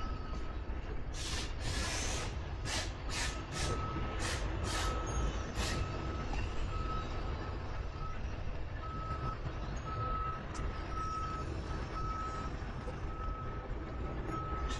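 Vehicle reversing alarm beeping steadily, just under two beeps a second, over a steady low rumble. About eight short hissing bursts come in the first six seconds.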